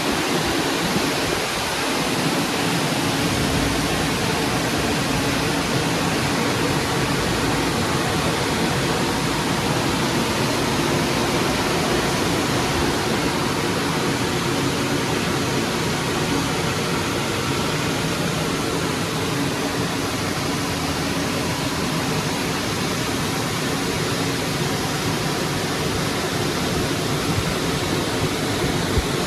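Istobal M1 rollover car wash running over the car, heard from inside the cabin: a steady, even rushing noise with no breaks.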